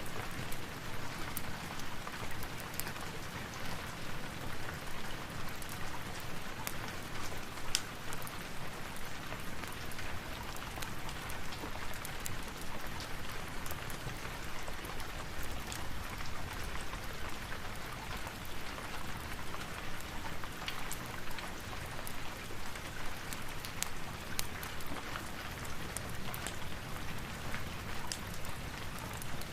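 Steady rain with many scattered sharp ticks.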